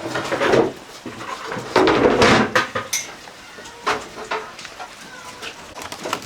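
Knocks and clatter of fish being handled and cut at a market stall, with two louder bursts of scraping and clattering about half a second and two seconds in.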